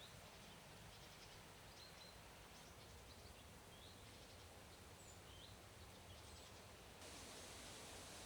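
Quiet forest ambience with faint, scattered short high bird chirps over a soft steady hiss.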